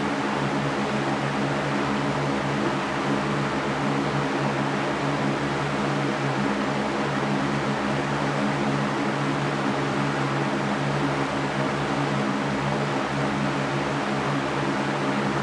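Electric fan running steadily: an even rush of air with a low motor hum beneath it.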